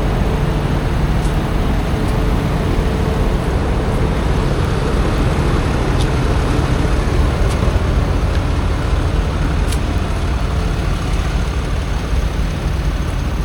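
Steady rumble of road vehicles and traffic, with a faint steady hum in the first few seconds.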